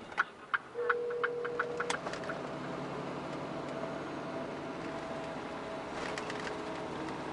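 Mitsubishi Fuso Super Great's 6R20 diesel engine running steadily. In the first two seconds a quick run of sharp clicks sounds, along with a steady electronic beep lasting about a second.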